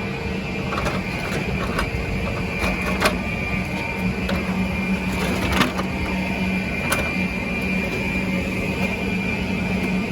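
Steady mechanical drone with a held hum and a higher whine. Several sharp clicks and knocks fall in the first half or so.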